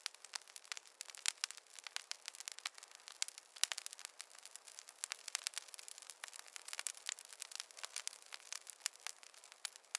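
Campfire crackling: a dense, irregular run of sharp pops and snaps over a soft hiss, with no low rumble.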